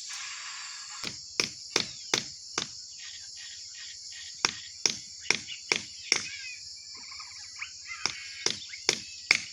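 Repeated sharp blows of a hand tool on wood, coming in runs of four to six strikes at a little over two a second, with short pauses between the runs. A steady high chirring of insects runs underneath.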